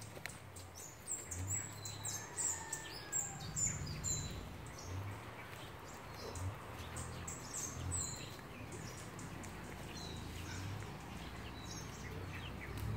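Small birds chirping: many short, high, downward-sliding chirps, thickest in the first few seconds and sparser after, over a low rumble.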